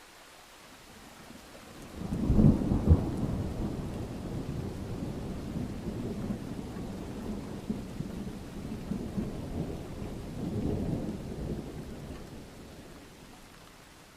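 A thunderclap about two seconds in, sharpest at its start, then a long low rumble that swells again near the end and dies away, over faint steady rain.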